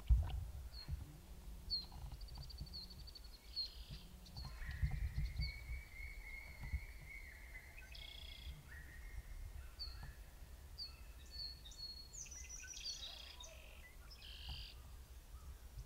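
Songbirds chirping and trilling, short high calls repeating every second or so with a longer held song in the middle, over a low rumble.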